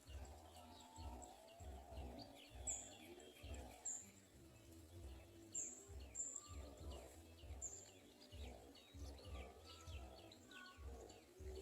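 Faint chirping of small birds: a string of quick, falling high notes, with a few short, sharper chirps higher still. A low rumble comes and goes underneath.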